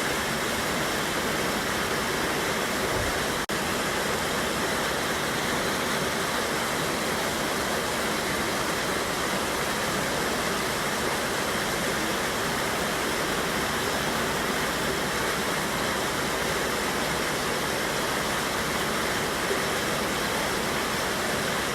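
Mountain river waterfall, white water rushing steadily, with a split-second dip in level about three and a half seconds in.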